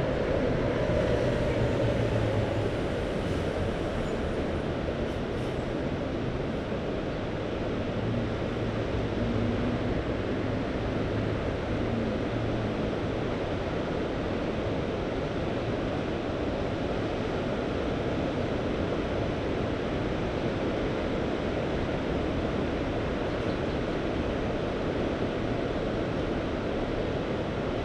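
Steady rushing wash of Mediterranean sea surf and wind on the microphone, with a low drone like a distant motor in the first ten seconds or so.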